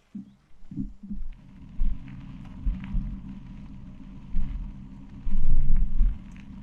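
Wind buffeting an action camera's microphone while riding a mountain bike downhill, a low rumble mixed with tyre noise on a gravel track, in irregular gusts that peak about five seconds in.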